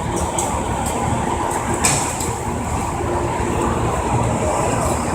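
Amtrak train rumbling steadily, with a single sharp click about two seconds in.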